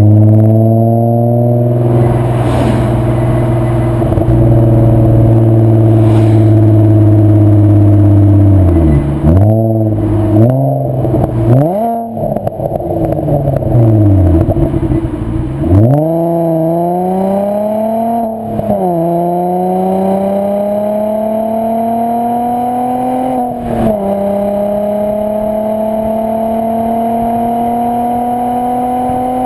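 VW Mk4 Bora/Jetta 2.8 VR6 24-valve engine running through a Milltek non-resonated exhaust while driving. The note holds steady for several seconds, then falls and rises a few times in quick succession with the throttle and gear changes, and after that climbs slowly under acceleration with a couple of brief dips.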